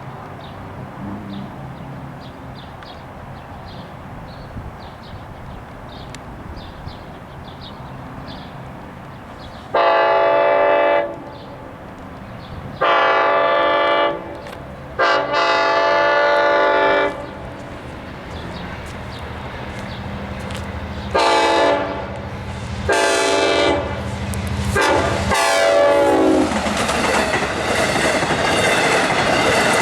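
Train horn sounding the grade-crossing signal, long, long, short, long, followed by a few shorter blasts, then the train rushing past over the crossing with wheels clattering on the rails. Before the horn, a grade-crossing warning bell rings steadily at about two strokes a second.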